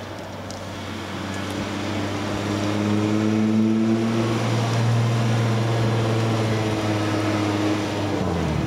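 2004 Chrysler Crossfire's 3.2-litre V6, fitted with an aftermarket exhaust, driving past at a steady engine note that grows louder as the car comes closer, then drops in pitch near the end as the revs fall.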